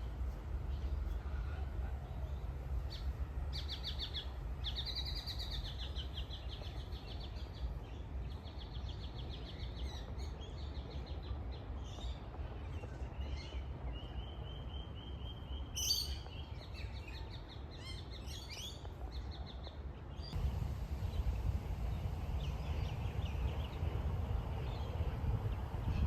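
Several birds chirping and singing in short trilled phrases, busiest through the first two-thirds, over a steady low rumble that grows louder near the end.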